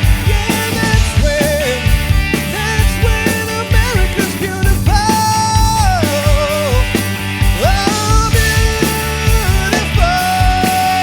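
Rock band playing with drums and bass keeping a steady beat under a lead melody of held, bending notes.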